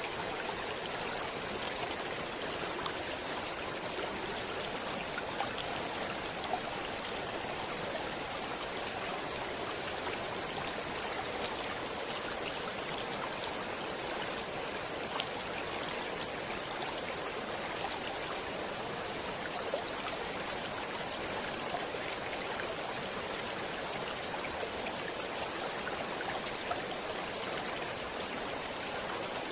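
Stream water running and splashing steadily, with small droplet-like ticks in the flow.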